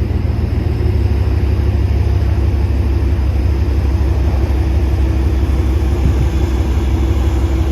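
Vehicle engine running steadily with a deep, even rumble and a constant hum, while a stuck vehicle is pulled out of mud.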